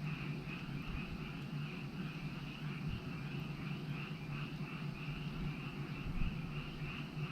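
A chorus of frogs calling, many rapid pulsing calls overlapping into a continuous trill, over a steady low hum.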